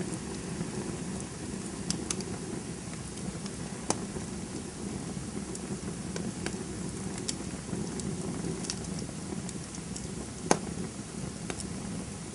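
Crackling wood campfire: a steady low rush of burning with scattered sharp pops and crackles, the loudest pop about ten and a half seconds in.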